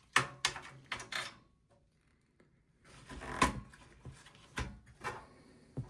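Small computer parts being handled during a desktop PC teardown: a quick run of clicks and taps, a pause, a louder clatter about three and a half seconds in, then a few single knocks of plastic and metal.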